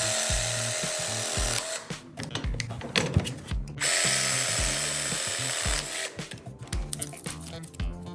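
A power tool runs twice, about two seconds each time, with background music and a steady beat underneath.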